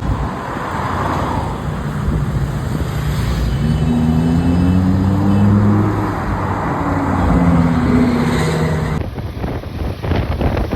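Vehicle engine running on a road, its pitch rising and falling a few times, over steady road and wind noise.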